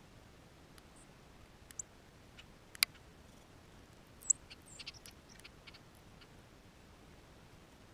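Small birds at a feeder giving a few short, high chip notes among scattered sharp taps, over faint hiss. The loudest are a tap a little before three seconds in and a high chip a little after four seconds.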